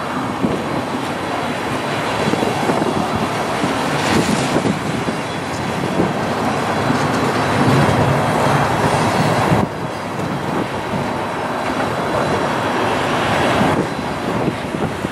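Freight train's covered hopper cars rolling past, with the steady noise of steel wheels running on the rails.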